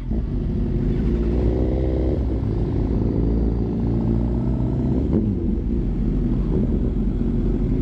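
Suzuki GSX-R sport bike's inline-four engine running steadily at low revs, with a brief rise and fall in pitch about five seconds in.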